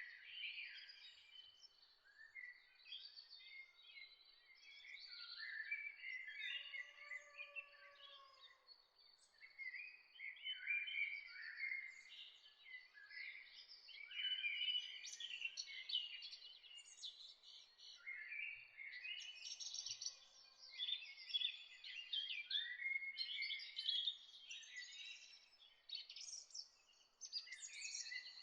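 Songbirds chirping and singing in a dawn chorus, several birds overlapping in quick high chirps and trills, with a soft lower whistle briefly around a quarter of the way in.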